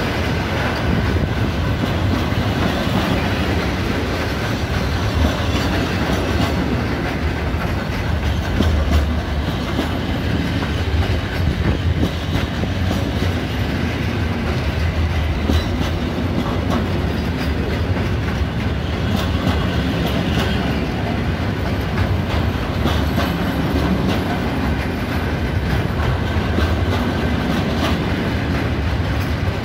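Container freight train passing close by: loaded container flat wagons rolling past with a steady low rumble and repeated sharp clicks from the wheels on the rails.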